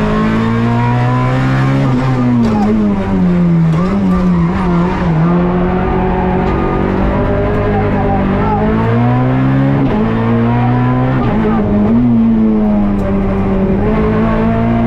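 Peugeot 208 R2 rally car's four-cylinder engine at high revs, heard from inside the cabin: the pitch climbs and drops sharply at each gear change, several times, and wavers up and down while the car brakes and turns.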